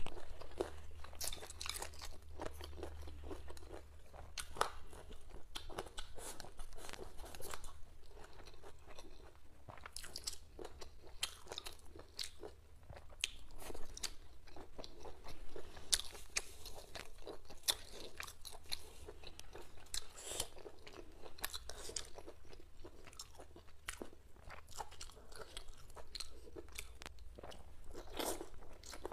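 Close-miked eating sounds: a person chewing and crunching spicy boneless chicken feet with their tendons left in, a steady run of small crisp crunches and wet mouth clicks.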